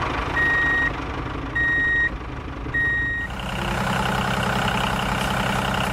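Reversing alarm on a heavy vehicle beeping three times, about one beep every second and a bit, over the engine running. The beeping stops a little past halfway and the engine runs on alone.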